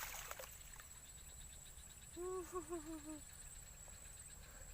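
Faint steady high-pitched insect trill, such as crickets, with a short wavering call about two seconds in.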